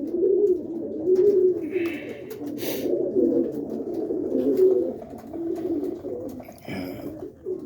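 Cock roller pigeons cooing over and over in the loft, several birds calling to court the hens. Two brief noisy scuffs break in, about two seconds in and again near the end.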